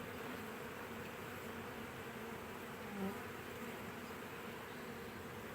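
Honeybee swarm buzzing steadily, a continuous low hum of many wings, with one brief louder buzz about three seconds in.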